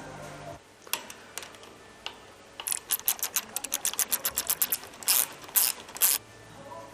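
A ratcheting hand tool clicking: a few single clicks, then a quick run of about ten clicks a second, then three louder, longer ratchet strokes near the end.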